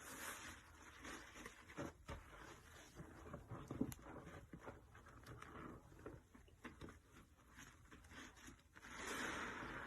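Sponge soaked in soapy detergent and cleaner, being squeezed and worked by hand: faint wet squelching with a dense, irregular crackle of popping suds. A longer hissing rush of foam and liquid comes near the end.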